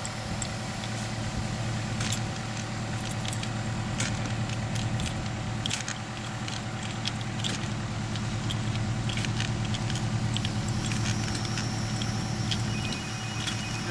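An engine running steadily at an even idle, with scattered metallic clicks and rattles over it.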